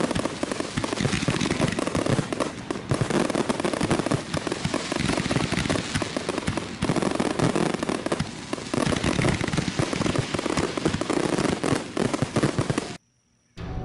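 Fireworks going off in a dense run of crackling pops and bangs, which cuts off suddenly near the end.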